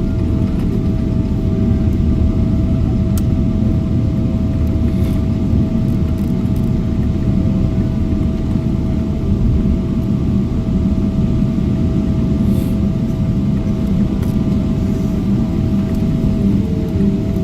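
Steady cabin noise inside a Boeing 777-300ER airliner: a dense low rumble with a thin, steady mid-pitched whine running through it.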